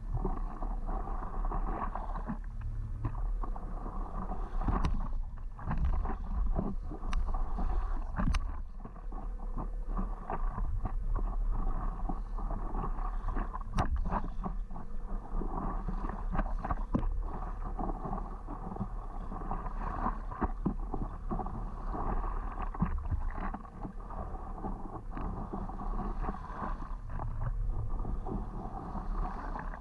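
Paddle strokes and water splashing around a stand-up paddleboard, with short knocks scattered throughout, over a steady rumble of wind on the microphone.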